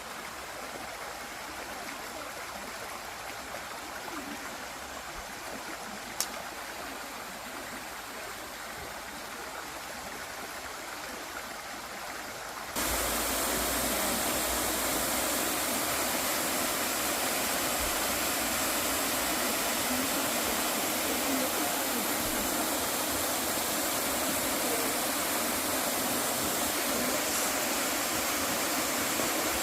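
Running water rushing steadily, with one sharp click about six seconds in; about thirteen seconds in the rush jumps abruptly louder and stays there.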